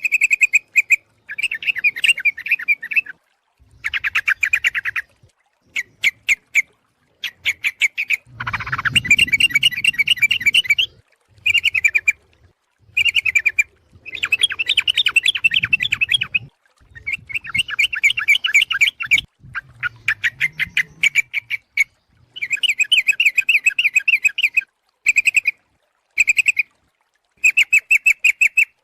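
Yellow-vented bulbul (trucuk) calling, a lure recording said to be a female calling males: fast, chattering runs of notes in repeated bursts of half a second to two seconds, with short gaps between them.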